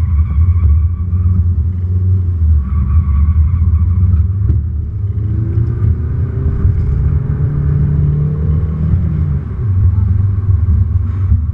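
Volkswagen Golf TDI's turbodiesel four-cylinder engine, heard from inside the cabin during an autocross run. It keeps up a deep, steady rumble, and its pitch rises from about five seconds in to about nine seconds in as the car accelerates.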